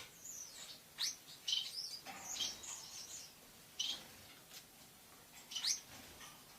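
Lovebird giving short, shrill chirps in irregular bursts, with two quick rising squeaks about a second in and near the end.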